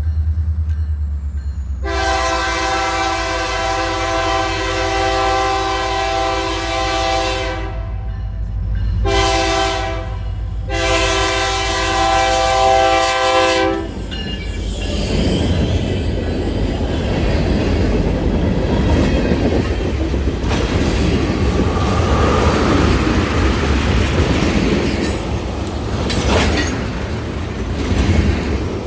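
Diesel locomotive horn sounding a long blast, a short one and another long one, the end of a grade-crossing signal, over the engine's steady low rumble. The single locomotive then passes close by, its wheels clattering and squealing on the rails.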